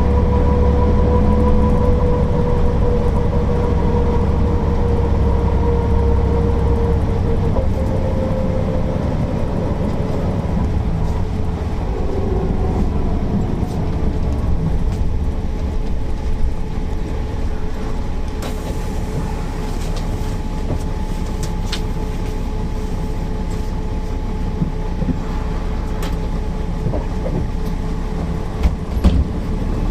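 Mercedes-Benz O408 city bus running under way: its diesel engine drones steadily, with a whine that sinks slightly in pitch over the first several seconds and then holds level. Sharp clicks and rattles come now and then in the second half.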